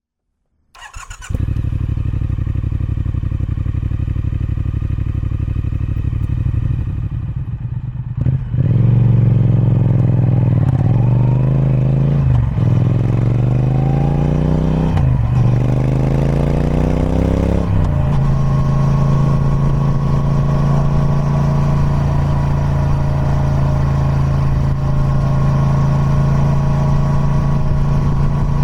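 Triumph Speed Twin 1200's 270° parallel-twin engine on its stock exhaust starting up about a second in, then running steadily. From about eight seconds it pulls up through the gears in four rising surges, each cut by a sudden drop in pitch at the shift, then holds a steady, louder tone.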